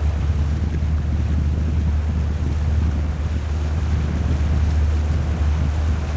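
Steady low rumble of wind buffeting the microphone, over a haze of water noise.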